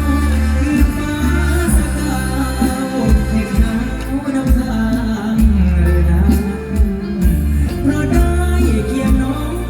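Live mor lam band music with a singer's voice over a heavy, pulsing bass.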